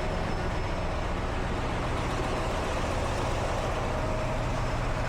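Heavy truck diesel engine idling steadily: a constant low rumble with a faint steady hum over it.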